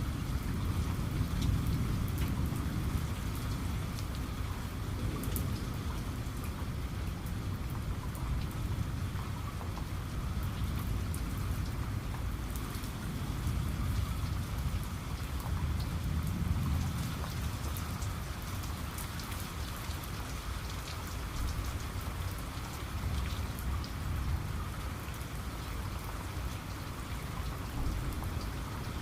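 Steady heavy rain falling, with fine ticks of individual drops and a low rumble of distant thunder that swells and fades several times.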